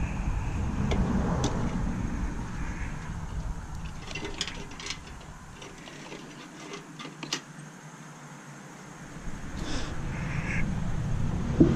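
Hand tools and stainless steel parts clicking and clinking now and then, with a louder knock near the end, over a low rumbling handling noise.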